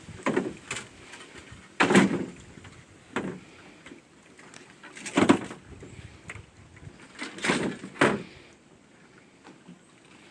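Paddle knocking against the side of a wooden boat while rowing: about seven hollow knocks at uneven intervals, one to two seconds apart.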